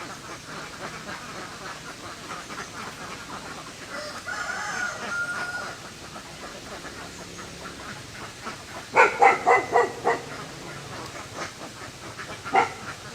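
Farm poultry calling: one drawn-out call about four seconds in, then a loud quick run of about five calls near nine seconds, and a single call near the end.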